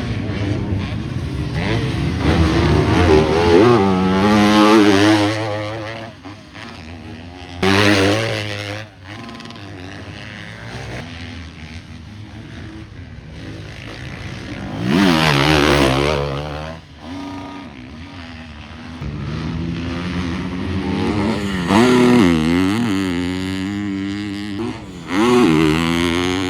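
Motocross dirt bikes revving and shifting as they ride past on the track, their engine pitch climbing and dropping again and again. Several louder passes come about 4 seconds in, around 15 seconds and around 22 seconds, with quieter stretches between.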